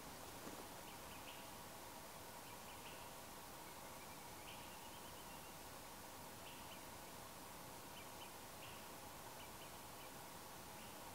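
Faint, short high chirps from a distant bird, single and in little groups every second or two, over a quiet outdoor hiss.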